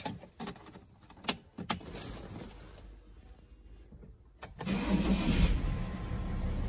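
Two sharp clicks as the key fob goes into the dash slot. About four and a half seconds in, the BMW E65 730d's 3.0-litre straight-six diesel cranks, fires and settles into a steady idle.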